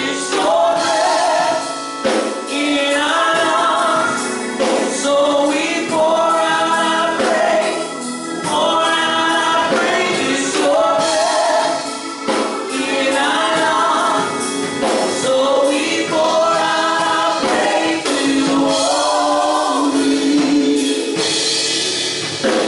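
A choir singing a gospel worship song in long sung phrases over instrumental accompaniment with regular percussion hits.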